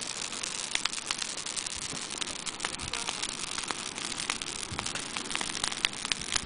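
Bonfire of garden waste burning: a steady hiss with frequent sharp crackles and pops, one louder pop about six seconds in.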